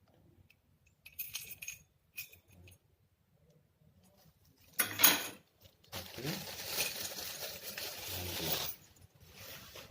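Small metal and plastic machine parts being handled and set down: a few light clinks, a sharp knock about five seconds in, then nearly three seconds of continuous clattering.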